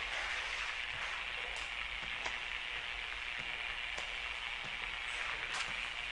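Steady hiss with a few faint clicks and crackles scattered through it.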